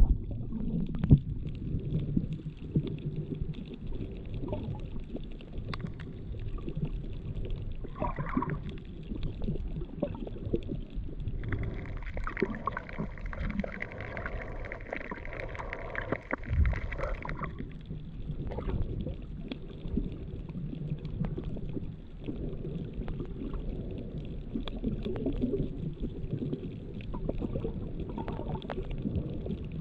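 Underwater ambience picked up by a GoPro Hero7's built-in microphone with no waterproof housing: a muffled low rumble of moving water with scattered clicks and crackles. For about five seconds in the middle, a higher humming drone rises over it.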